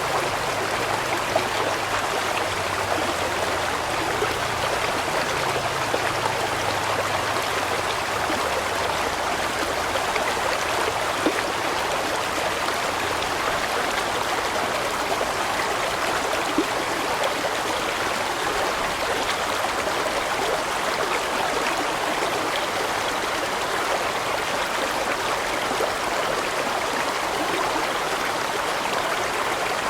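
A large stream rushing and splashing steadily over rocks, with a few brief louder splashes.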